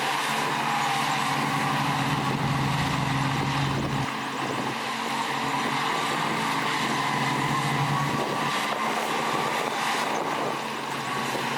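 Heavy diesel earthmoving machinery running steadily under a mechanical whine. The low engine note drops about a third of the way in and shifts again later.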